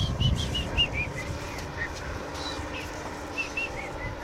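Small birds chirping in short, high, arched notes, many in quick succession, over a low rumble and a faint steady hum.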